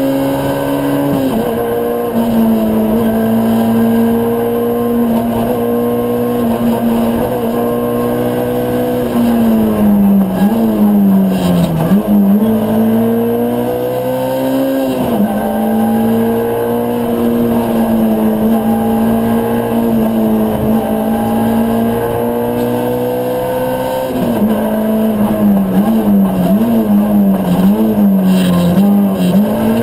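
Ford Fiesta R2 rally car's 1.6-litre four-cylinder engine heard from inside the cabin, running hard at stage pace. The revs drop about a second in, dip twice around the middle as the car slows and picks up again, and waver up and down in the last few seconds before rising near the end.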